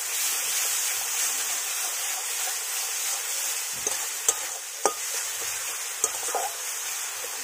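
Ginger-garlic paste frying with onions and tomatoes in hot mustard oil in a karahi: a steady sizzle as the masala is stirred with a metal spatula, which clicks against the pan a few times in the second half.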